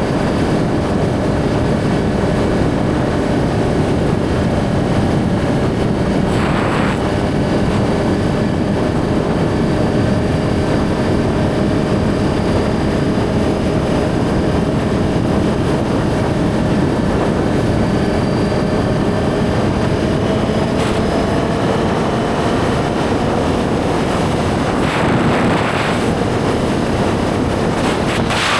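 Suzuki GSX-R1000's inline-four engine running at a steady cruise, its pitch drifting only slightly, with wind rushing past the microphone. Brief swells of rushing noise come about seven seconds in and again near the end.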